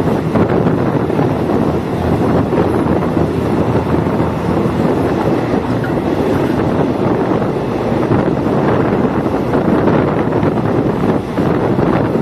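Diesel multiple unit train running along the line, a loud steady noise of wheels and engine with wind buffeting the microphone.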